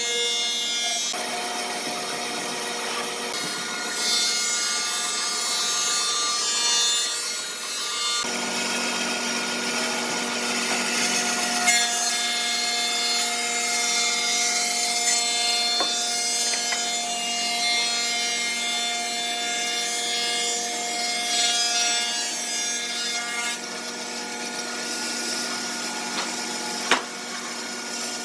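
An electric power tool runs steadily against wood, its motor whine mixed with a rough grinding, rasping noise. The tone shifts a few times as the tool's load changes, and there is one sharp knock near the end.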